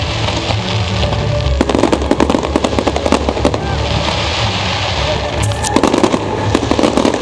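Fireworks crackling in dense runs of rapid pops, one starting about a second and a half in and another near six seconds, over music with steady bass notes.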